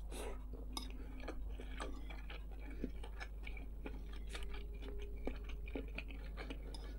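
Quiet chewing of a mouthful of rice, with many small irregular mouth clicks, and a metal fork scraping and tapping on the plate as another forkful is scooped.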